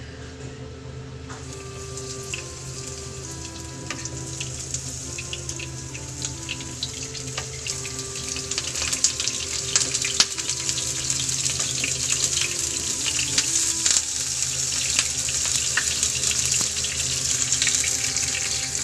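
Eggplant pieces frying in hot oil in a nonstick pan: a steady sizzle full of small crackles and pops that starts suddenly about a second in and grows louder.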